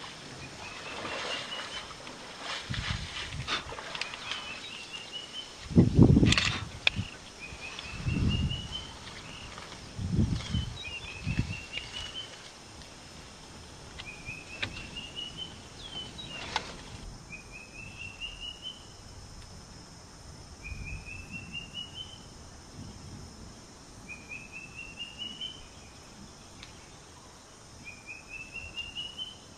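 Outdoor ambience: a bird repeats a short call of quick notes rising in pitch about every two seconds. Low rustling thumps come in the first half, the loudest about six seconds in.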